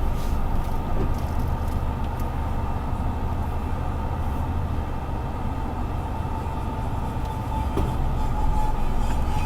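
Steady low rumble, with the faint steady tone of a distant outdoor tornado warning siren that grows clearer near the end.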